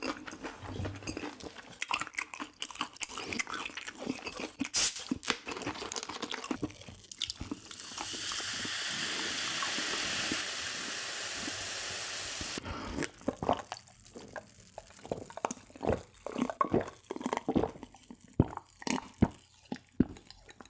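Close-up crunching and chewing of crispy fried chicken, many sharp crackly bites. About seven seconds in, a steady hiss runs for about five seconds, then stops suddenly and the crunching resumes.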